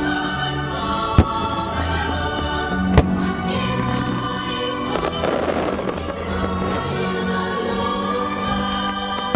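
Choral music playing over a fireworks display. Single sharp firework bangs come about a second in and again at about three seconds, and a dense crackling burst follows about five seconds in.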